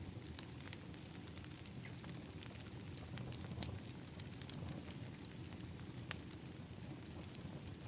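Wood fire in an outdoor fire pit crackling, with frequent sharp pops over a low, steady rumble; two pops stand out louder, one near the middle and one later on.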